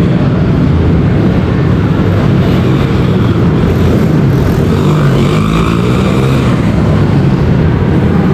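Mini bikes running hard in a race, their motors a steady loud drone whose pitch rises and falls about five to six seconds in.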